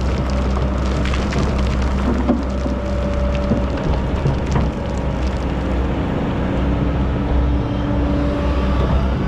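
Excavator's diesel engine running steadily with a deep hum, with scattered clicks and knocks, mostly in the first half, that fit sand and stones shifting as it digs.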